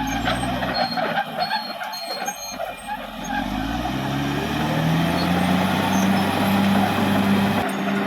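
Caterpillar D6R XL bulldozer's diesel engine speeding up about halfway through and then holding steady at higher revs, with clattering and crackling throughout and a few brief high squeaks early on.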